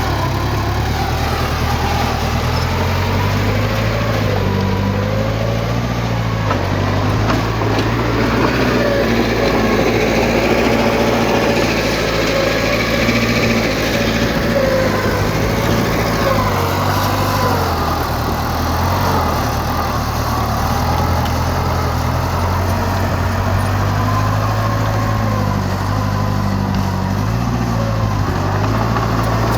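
Diesel engine of heavy earthmoving machinery running steadily, its pitch rising and falling a little as the engine speed changes under load.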